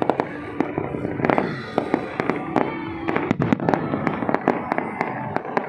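Fireworks going off in a rapid, irregular string of sharp bangs and crackles, over the voices of a crowd.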